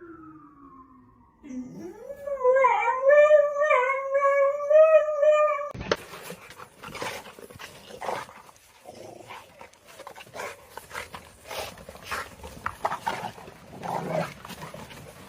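A dog howls: one long call that rises at the start and then holds steady for about four seconds. After an abrupt cut there are a dog's noisy breaths and scuffling clicks.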